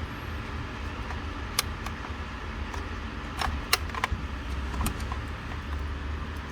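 A few sharp clicks and rattles of dashboard wiring connectors and parts being handled, over a steady low hum.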